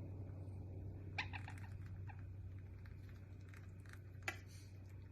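Baby parrots eating a vegetable-and-formula mash: a few faint short chirps, a cluster about a second in and one more near four seconds, over a steady low hum.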